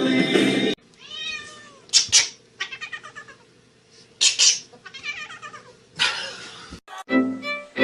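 A cat meowing over and over, a string of separate meows with a few louder, sharper calls among them. Music cuts off under a second in, and other music with bowed strings starts near the end.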